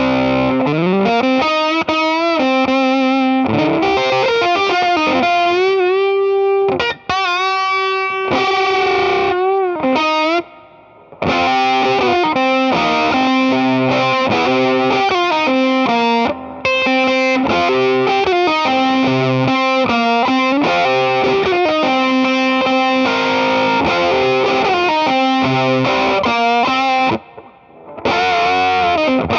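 Electric guitar played through an EarthQuaker Devices Sound Shank, a germanium fuzz pedal, giving a thick distorted tone. Sustained notes with string bends and vibrato run as a melodic line, with a few short breaks between phrases.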